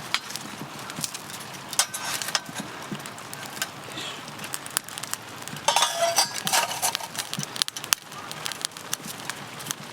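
Scattered clicks, knocks and clinks of camp gear being handled, with a denser run of metallic clinking a little past the middle, over a steady hiss.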